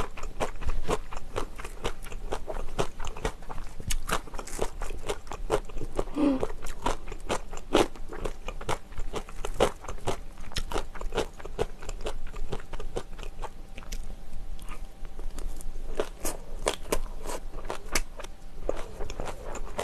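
Close-miked chewing and crunching of green onion kimchi and bibimbap: a dense run of wet crunches and mouth clicks, several a second.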